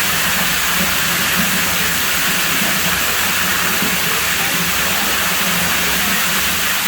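Steady rush of running water: a continuous, even hiss with no breaks or changes.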